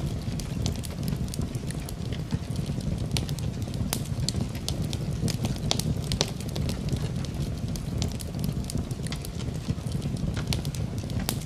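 Wood fire crackling, with many small sharp pops at irregular moments over a steady low rumble.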